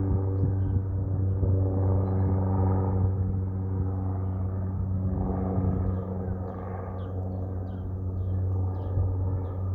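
Antonov An-2 biplane's nine-cylinder radial engine and propeller droning steadily at one even pitch, growing a little fainter about six seconds in. Faint high chirps sound over it in the second half.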